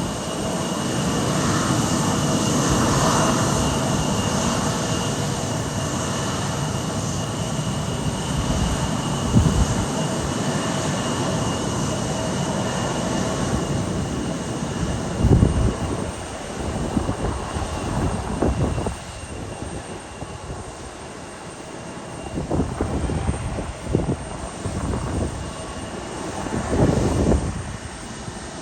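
Airliner engines running at the airport as a steady jet rush with a faint whine, loudest in the first few seconds. Low buffeting surges break in several times later on, typical of gusty wind on the microphone.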